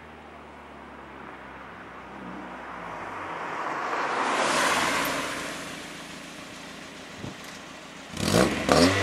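A car goes by with a swelling and fading rush of noise. About eight seconds in, the Mazda MX-5's four-cylinder engine with its aftermarket Postert exhaust revs sharply and loudly, with cracks from the exhaust.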